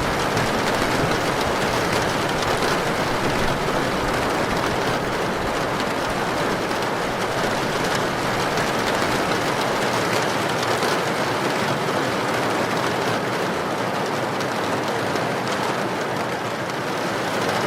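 Heavy rain with wind, a steady dense wash of noise with no breaks.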